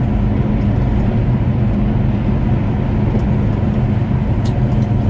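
Vehicle driving at steady speed, its engine a constant low drone under road noise, with no change in pitch.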